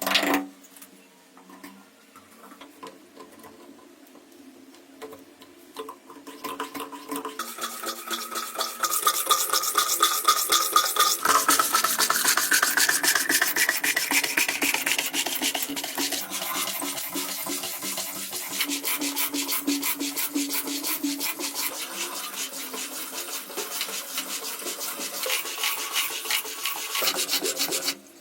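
Rapid, continuous rasping strokes of a hand tool scraping a rough surface, building up about six seconds in and staying loud to the end, after a short loud burst at the very start.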